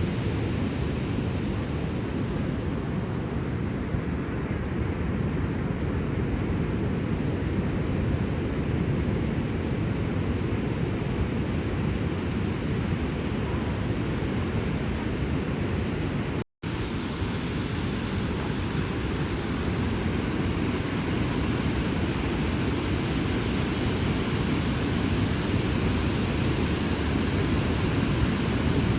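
Steady rushing noise of ocean surf and wind buffeting the microphone on an open beach, heaviest in the low rumble. About halfway through it drops out for an instant.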